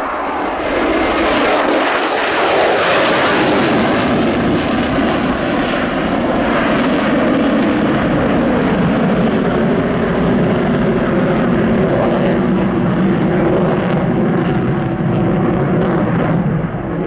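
Jet noise from a USAF F-35A Lightning II's single F135 afterburning turbofan. It swells loud about a second in, and its tones slide down in pitch as the fighter passes and draws away.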